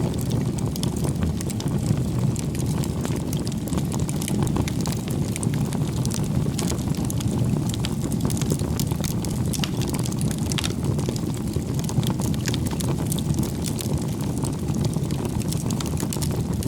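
Bonfire of firewood burning: a steady low rumble of flames with frequent small crackles and pops.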